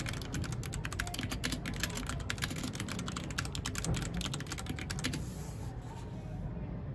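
Mechanical keyboard being typed on in a fast, continuous run of keystroke clicks that stops about five seconds in.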